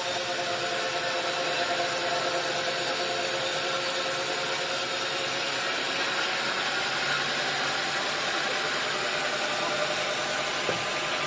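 Sawmill machinery running steadily with an even, engine-like hum and no change in pitch.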